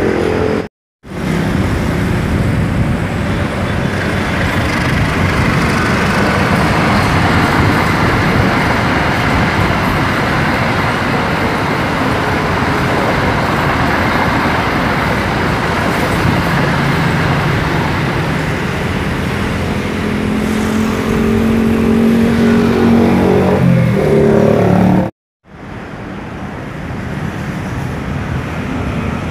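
Long-distance passenger train passing close by, a loud steady rush of wheels on rail, with a deeper pitched hum joining in near the end of the pass. The sound drops out briefly about a second in and again near the end.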